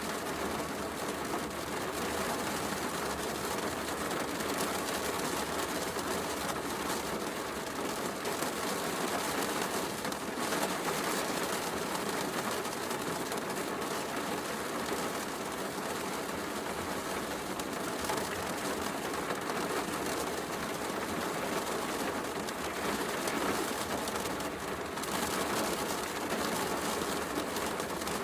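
Steady heavy rain falling, mixed with a wood fire crackling in a fireplace.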